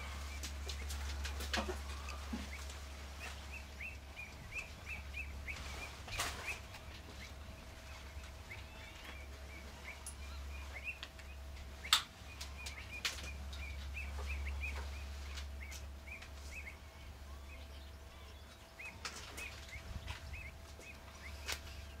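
A small bird chirping in long runs of short, high, evenly spaced notes, with a break near the end, over a low steady rumble. A few sharp clicks stand out, the loudest about halfway through.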